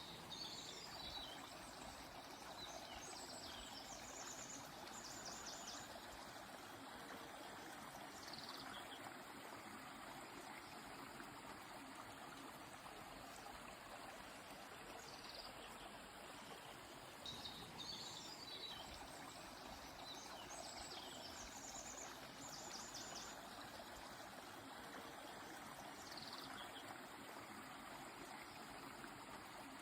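Steady rush of a flowing stream, with small birds calling high above it: two bouts of chirps and quick trills, one at the start and one a little past halfway, and a few single falling notes in between.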